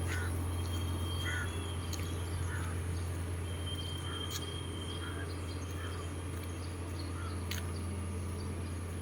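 A steady low hum with a faint high whine, over which come short, faint bird-like calls every second or so and a few light clicks.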